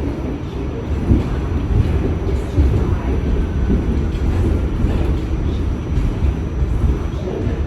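New York City subway train running along the track, heard from on board: a loud, steady rumble of wheels on rails with irregular knocks and clunks.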